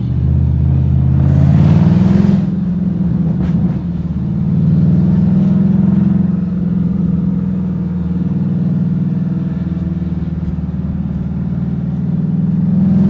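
Manual-transmission car's engine running under way on a mountain road, rising in pitch about a second in as it accelerates, then holding a steady drone. A brief rush of noise comes about two seconds in.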